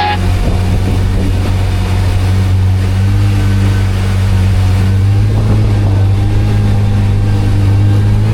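Kawasaki Ultra 310 LX jet ski's supercharged four-cylinder engine running steadily under way, a loud even drone that swells slightly about halfway through.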